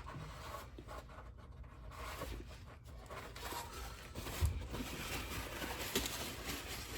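Faint scraping and rubbing of hand work cleaning old gear oil and sludge out of a truck's rear differential cover, with a couple of light knocks about four and a half and six seconds in.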